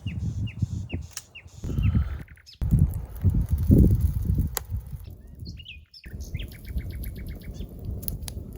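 Wild songbirds singing: short repeated chirps, and a rapid trill a little after halfway, over a loud, uneven low rumble.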